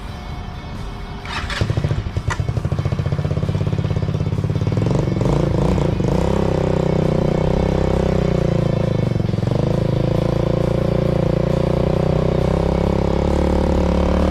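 A DongFang Rogue 150's 150cc air-cooled single-cylinder engine starting up about a second and a half in, then running; its pitch climbs a few seconds later and holds steady.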